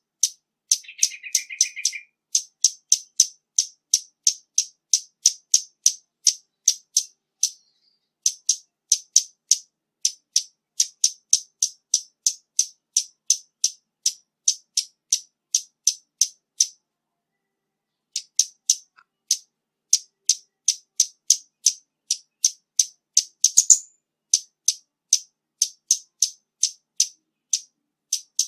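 Scarlet-backed flowerpecker calling: a long series of sharp, high ticking notes, about three a second, with a few short pauses. A brief lower buzzy trill comes about a second in.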